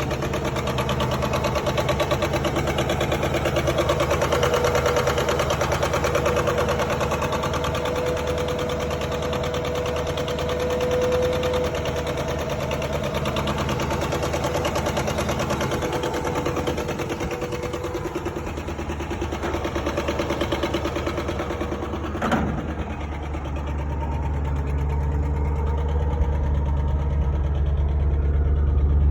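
ZMZ-523 V8 petrol engine running with a steady knock ('стук-стук'), the sign of a mechanical fault inside the engine. There is a single sharp click about 22 seconds in, and the engine gets louder near the end.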